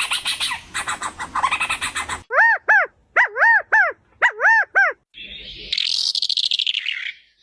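A run of different animal calls, most likely birds, one after another. First comes a fast buzzy rattle. Then come three pairs of clear whistled notes that rise and fall. Last, a harsher pulsing call slides downward near the end.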